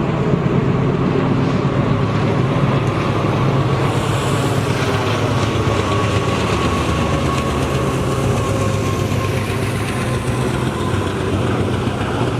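Diesel-hauled train running steadily: engine drone with wheels rattling on the rails.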